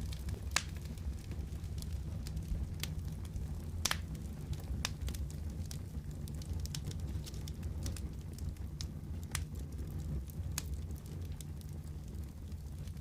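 Wood fire burning in a fireplace: a steady low rumble with sharp, irregular crackles and pops, the loudest about half a second in and near four seconds in.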